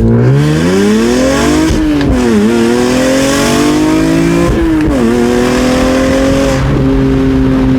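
BMW E46 M3's S54 straight-six through a Valvetronic exhaust at full throttle, revs climbing hard in a first-gear pull. The pitch drops sharply twice, about two and five seconds in, as it shifts up, then it settles to a steady note near the end.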